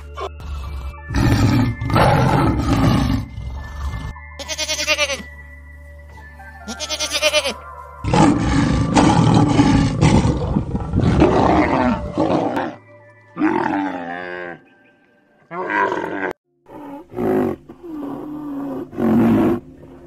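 A series of wild animal calls over steady background music: elephant calls early on, then a lion roaring and growling in a long, loud stretch from about 8 to 12 seconds in, followed by shorter calls.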